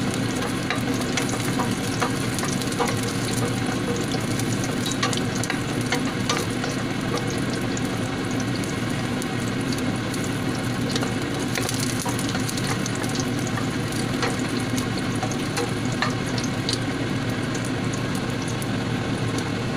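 Garlic sizzling and crackling in hot oil in a stainless steel pot, with the scrape of a wooden spatula stirring it.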